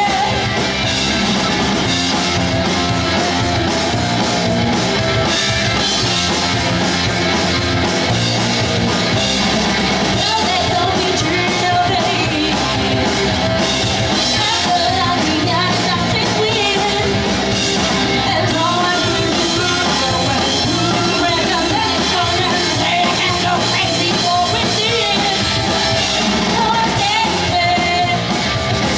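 Live pop-punk band playing loud, steady rock with a sung lead vocal.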